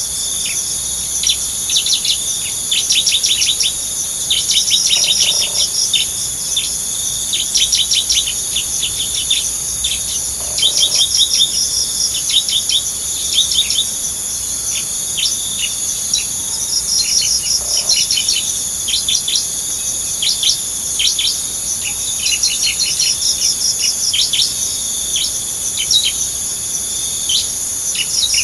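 Bar-winged prinia (ciblek) chattering: rapid trains of short, high, dry calls, repeated over and over, over a steady high-pitched insect drone.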